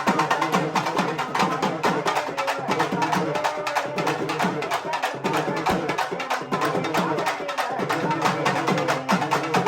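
Urumi melam drum ensemble playing: fast, continuous drum strokes over the urumi drums' rubbed, repeatedly sliding low tones.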